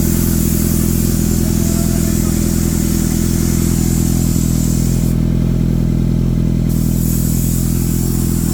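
Kawasaki Z900 SE's inline-four engine idling steadily and loud through an Akrapovic exhaust with the breadbox pre-silencer removed.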